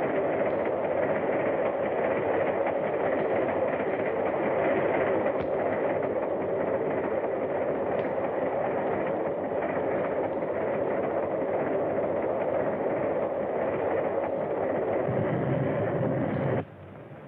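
Train running at speed: a steady, loud rushing rattle. It cuts off abruptly about a second before the end.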